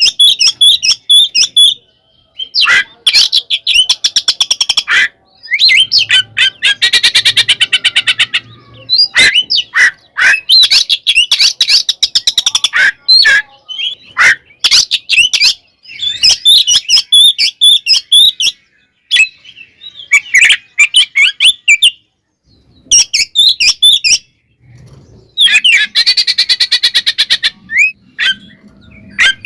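Oriental magpie-robin (kacer) singing loudly in its full fighting song: bursts of fast, harsh rattling chatter alternate with high whistled phrases, broken by short pauses.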